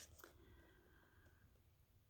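Near silence: room tone, with a faint rustle and a couple of soft clicks right at the start.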